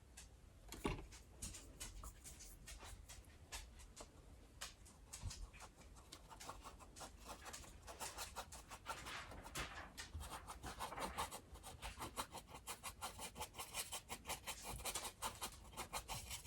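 Paintbrush bristles scratching and dabbing acrylic paint onto a canvas in many short, quick strokes, the strokes coming faster and closer together in the second half.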